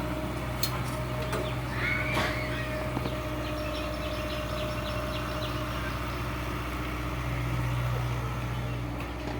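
Heavy diesel engine running steadily at a constant speed, a low even hum with a few faint clicks and a short high chirp about two seconds in.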